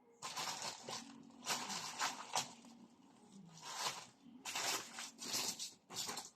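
Rustling and rummaging through spare parts in about five separate bursts, as a replacement capacitor is searched for.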